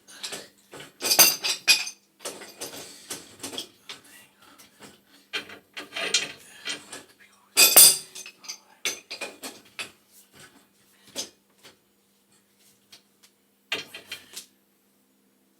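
Metal clinking and clanking as wrenches and half-inch gas pipe fittings are handled and knocked together, with two louder clanks about a second in and near the middle. A faint steady hum runs underneath.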